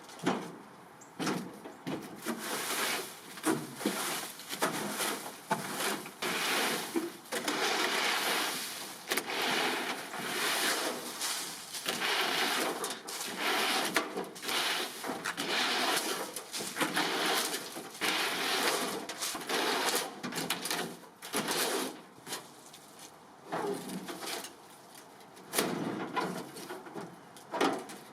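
Hand cleaning work: repeated rough scrubbing or wiping strokes, each lasting a second or two, with small knocks and clicks between them.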